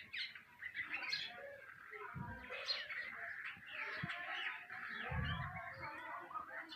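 Nightingales singing in a dense chorus of overlapping chirps and warbled phrases. Two brief low rumbles come through, about two and five seconds in.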